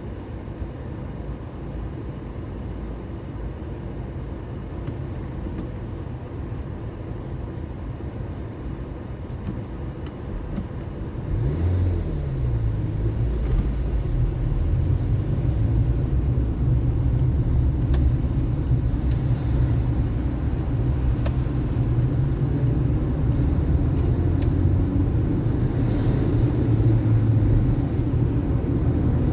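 Car engine and road rumble while driving. About a third of the way in it gets louder, as the engine note rises with the car speeding up, then it holds steady at speed.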